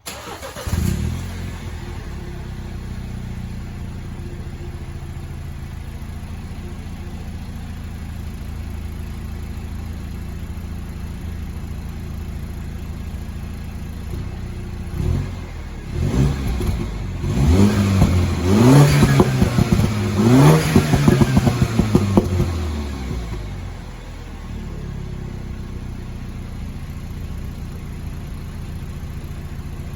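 MINI Cooper S F56 turbocharged four-cylinder breathing through a new Invidia Q300 cat-back exhaust, catching with a brief flare and settling to a steady idle. About halfway through it is blipped several times in quick succession, each rev rising and falling, then drops back to idle.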